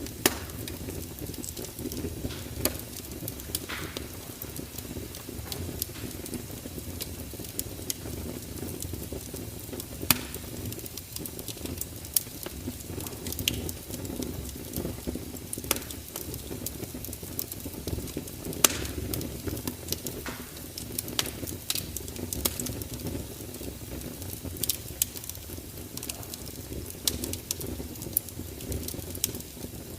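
Wood fire burning with a steady low rush and frequent irregular crackles and sharp pops, a few of them louder.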